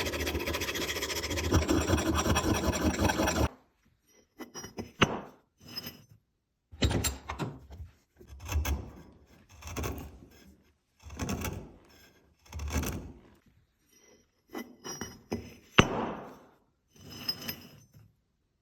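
Hand scrubbing or filing strokes on a vintage roofing hatchet being cleaned up: fast, continuous rasping for about three and a half seconds, then slower separate strokes about every second and a half, with a couple of sharp clicks among them.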